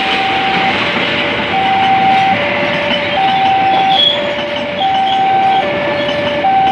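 Passenger train passing at speed, its coaches' wheels making a steady loud rush on the rails. Over it, the level-crossing warning alarm sounds an alternating two-tone signal, high then low, each tone about three-quarters of a second long.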